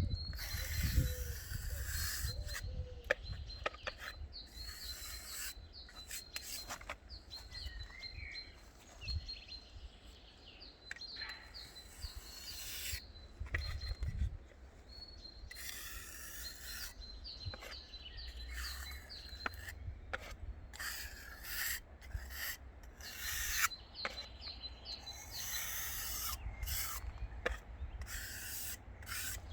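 Irregular bouts of rough scraping or rubbing strokes, some lasting a second or two, with birds chirping throughout.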